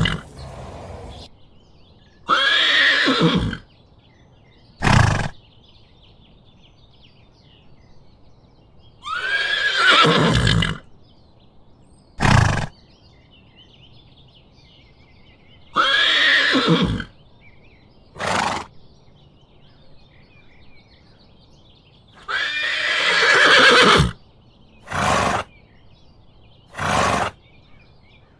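Horse whinnying: four calls of about a second and a half each, falling in pitch, with five short sharp sounds in between.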